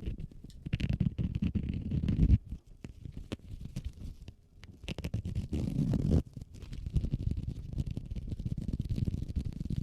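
A key case being rubbed, scratched and handled close to the microphone, in quick sped-up ASMR triggers: a dense patter of small clicks and scratches over a low rumble. It comes in louder spells with a quieter lull a few seconds in.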